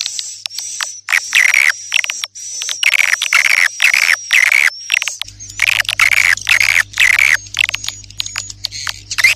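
Swiftlet lure call recording: dense, rapidly repeated swiftlet twittering chirps with a thin high whistle running under them, the kind of sound played to call edible-nest swiftlets. A low steady hum comes in about five seconds in.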